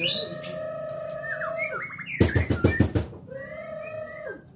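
White-rumped shama singing long, clear whistled notes with sliding pitch. Just after two seconds a quick run of sharp, loud clicks breaks in, then the whistles resume and fade out near the end.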